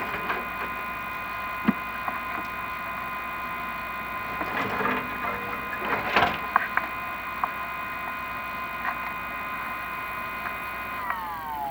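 Steady electric motor whine from a chimney inspection camera rig moving down a flue, with scattered clicks and scrapes of the camera against the masonry. Near the end the whine drops in pitch as the motor slows.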